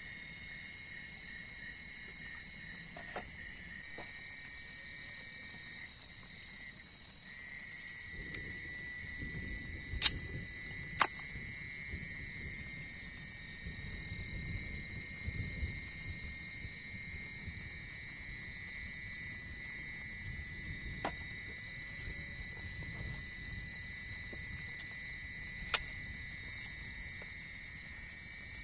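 Steady, shrill chorus of forest insects in the evening, running without a break. A few sharp clicks cut through it, the loudest two about ten and eleven seconds in and another near the end.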